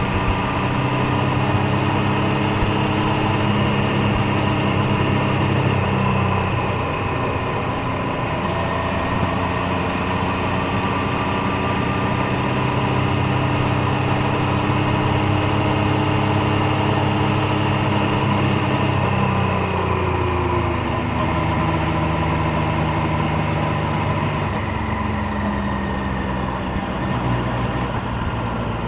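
Triumph Street Triple 765 Moto2 Edition's inline three-cylinder engine and exhaust running steadily under way. The engine note falls for a couple of seconds about two-thirds of the way through, then settles again.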